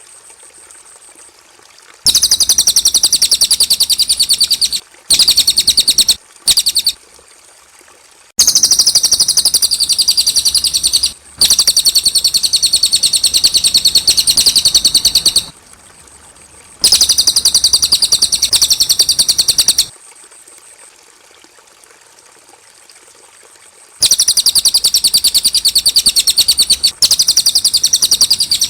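Cililin singing: loud, very fast high-pitched trills, each one a rapid run of repeated notes lasting one to four seconds, with short pauses between them. There are about eight trills in all.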